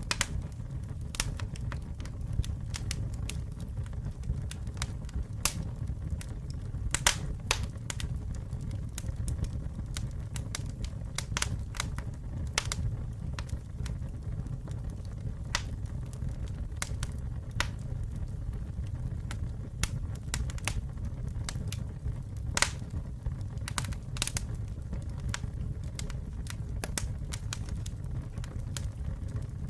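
Wood fire burning: a steady low rumble of flames with irregular sharp crackles and pops, a few louder snaps scattered through.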